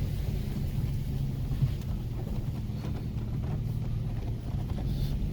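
2010 Toyota Tacoma's engine running at low revs, a steady low drone heard from inside the cab as the truck crawls slowly over rough trail, with a few faint knocks and creaks.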